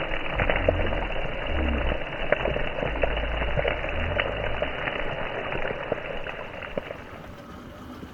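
Fish frying in hot oil, a steady sizzle with many small pops and crackles, under a low rumble for the first few seconds; the sizzle fades gradually near the end.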